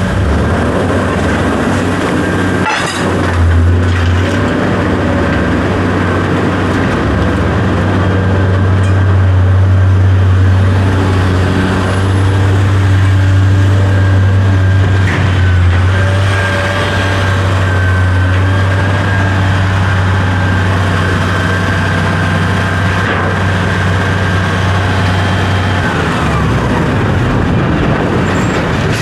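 An engine running steadily, with a strong low hum and a few steady higher tones over it. The low hum drops away about 26 seconds in.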